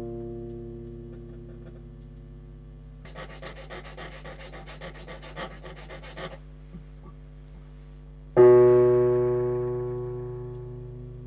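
A Hohner electric piano reed note rings and dies away. It is followed by quick metal filing strokes, about six a second, on the reed's weighted tip as it is tuned. About eight seconds in, the note is played again loudly and decays slowly, to check the reed's pitch.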